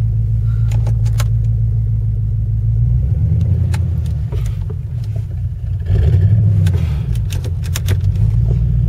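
Ford Crown Victoria's V8 engine and drivetrain rumbling from inside the cabin, getting louder about six seconds in, with a few light clicks and rattles.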